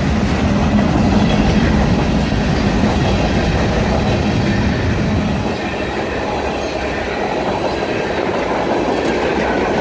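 Train passing close by, its cars rolling steadily over the rails.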